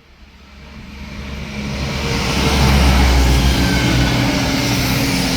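East Midlands Railway Class 170 Turbostar diesel multiple unit approaching. Its diesel engine note and rail rumble grow louder over the first two to three seconds, then hold loud and steady as it runs close by.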